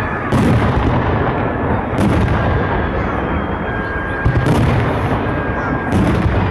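Fireworks salute: three loud booms of aerial shells bursting, about a second in, at two seconds and near the end, over a continuous crackle and rumble of further bursts.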